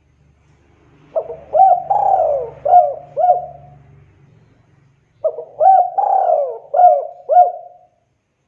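Spotted dove (tekukur) cooing: two song phrases of about five coos each, the second starting about four seconds after the first.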